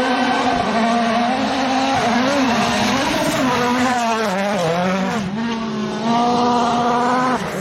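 Rally car engine running hard at high revs, its pitch rising and falling with throttle and gear changes, with a sudden change in the engine note about five seconds in.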